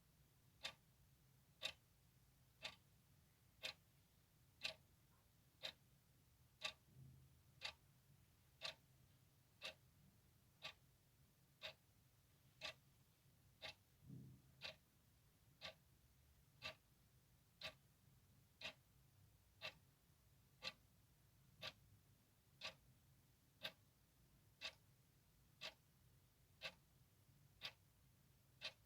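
Clock ticking steadily, one sharp tick about every second, over a faint low hum. Two soft low thumps come in about a quarter and halfway through.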